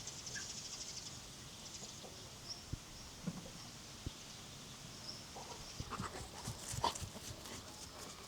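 Farmyard ambience: a fast, pulsing high trill and a few small bird chirps, a short low animal sound about three seconds in, and a cluster of clicks and knocks near the end.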